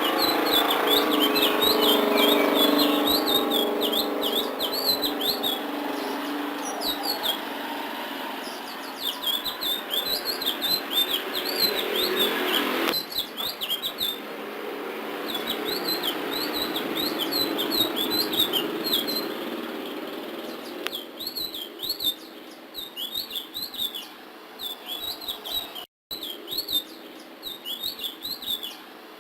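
A blue flycatcher singing nonstop in quick, varied twittering phrases, full-voiced and laced with imitated notes. A steady background hum sits under the first half and drops away about 13 seconds in.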